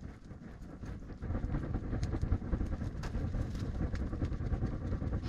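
Rushing, buffeting gusts of air as a smouldering nodya log fire is fanned by hand to spread the embers along the log, growing much stronger about a second in.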